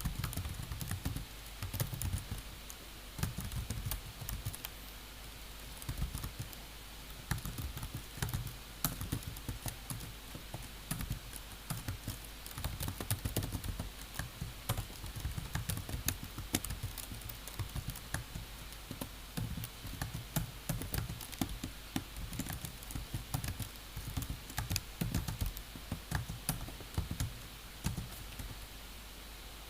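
Typing on a computer keyboard: a continuous, irregular run of key clicks in bursts, over a low steady hum.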